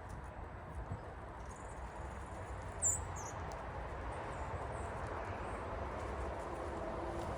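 Wild birds giving a few short, high chirps, the loudest about three seconds in, over a low steady rumble that slowly builds toward the end.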